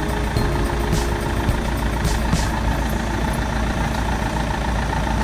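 Vehicle engine idling with a steady low rumble, with a few brief clicks.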